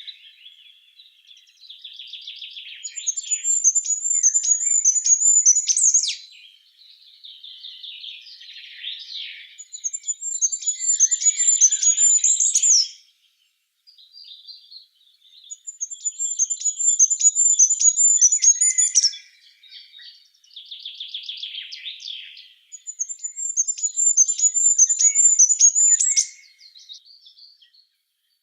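A songbird singing a high, rapid trill about three seconds long, four times at intervals of about six to seven seconds, with softer twittering and chirps between the songs.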